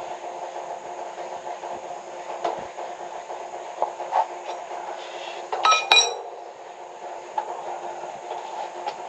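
Hard metal objects knocking and clinking during water-pipe repair work: a few light knocks, then two sharp ringing clinks close together just under six seconds in. A steady hum runs underneath throughout.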